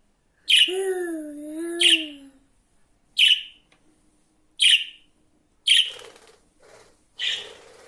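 Pet budgerigar giving short, sharp chirps, six of them spaced about a second and a half apart. A drawn-out wavering hum runs under the first two chirps.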